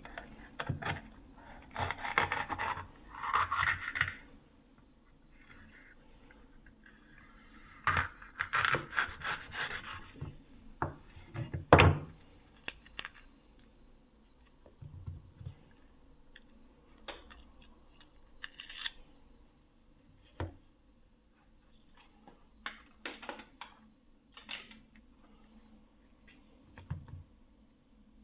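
Food-preparation sounds: intermittent rubbing and scraping with scattered clicks and light knocks. There is one sharp, louder knock about twelve seconds in.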